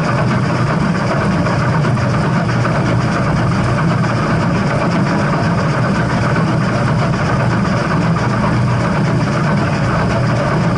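Steady, unbroken rumble of a steam train, even in level throughout, with no whistle or distinct beats standing out.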